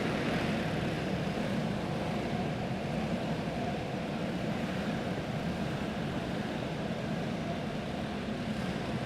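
Pro Clone go-karts' small single-cylinder four-stroke engines running steadily at low speed as the field circles under caution, heard as an even, distant drone.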